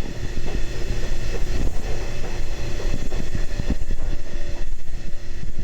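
Train running with a loud, steady rumble, a faint steady whine and scattered knocks and clatters.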